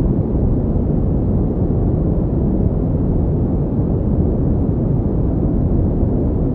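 Steady generated pink noise: an even, deep hiss with most of its weight in the low end and little above, unchanging throughout.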